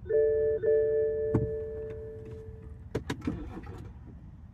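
Car's dashboard warning chime, sounding twice in quick succession and ringing out over about three seconds, followed by a few sharp clicks, during a cold-start attempt on a BMW diesel that is preheating its glow plugs.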